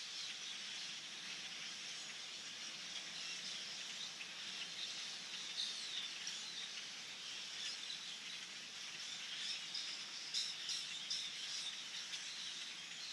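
A large flock of hundreds of blackbirds calling at once in the trees: a dense, continuous chatter of overlapping squeaks and chirps, with a burst of sharper squeaks about ten seconds in.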